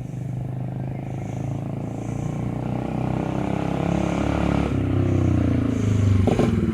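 Dirt bike engine running under throttle, growing steadily louder, then its pitch drops about five seconds in.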